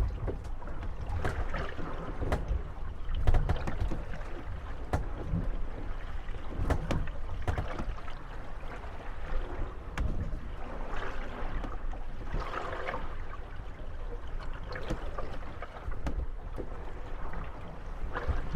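Moored wooden gondolas rocking on small waves, creaking and knocking against each other and the landing at irregular moments, over a steady low wash of lapping water.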